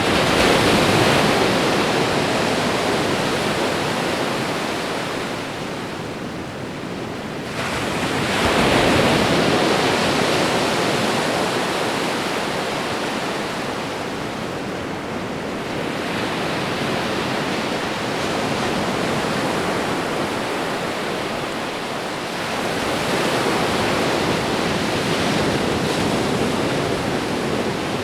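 Ocean surf: waves breaking and washing up a shore in a continuous wash, swelling to a peak about every seven or eight seconds, four times in all.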